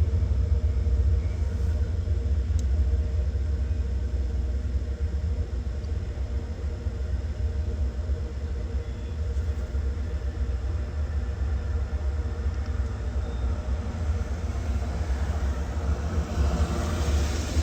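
Three Norfolk Southern diesel locomotives leading a freight train, a deep steady rumble of their engines, with a hiss building near the end.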